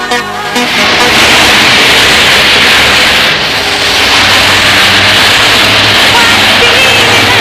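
Electronic dance music cuts off within the first second, giving way to loud, steady rushing noise with a faint low hum underneath, like road and wind noise from a moving vehicle on the camera's microphone.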